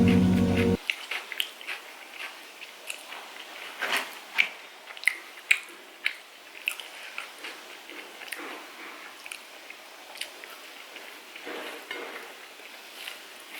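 Close-up eating sounds of chicken curry being chewed: irregular sharp clicks, smacks and crunches with wet chewing between them, the loudest cluster about four to six seconds in.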